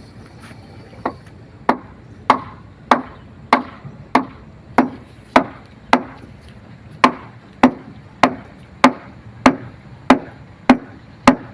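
Steady rhythm of heavy blows from a hand tool, about one and a half strikes a second, starting about a second in and running on without a break, as work is done on a ferry's floor.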